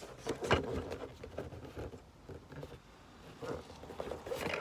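Handling of a sealed cardboard toy package: scattered rustles, scrapes and light taps as it is turned over in the hands, the loudest about half a second in and another cluster near the end.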